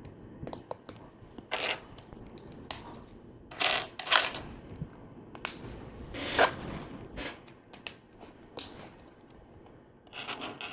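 Plastic LEGO Technic pieces being handled and pushed together: a scattered run of light clicks and short rustles, several seconds apart.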